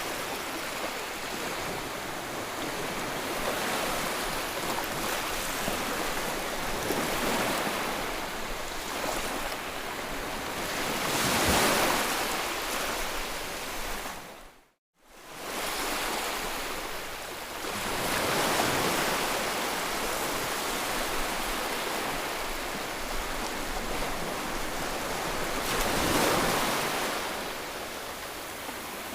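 Continuous white-noise track for settling a colicky baby: an even rushing hiss that slowly swells and ebbs like surf. About halfway through it fades out to silence for a moment and comes straight back.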